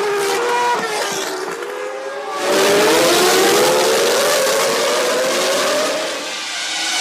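1998 Formula One cars' V10 engines running at high revs, the pitch sweeping up and down. A louder engine comes in sharply about two and a half seconds in and dips near the end.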